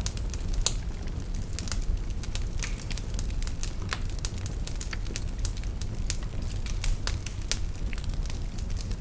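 Fire burning in a fireplace, crackling with many sharp snaps and pops at irregular intervals over a steady low rumble.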